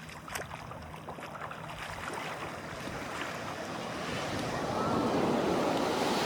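Sea wave washing in on a shore, the rush of water swelling over a few seconds and at its loudest near the end. A few light clicks sound during the first two seconds.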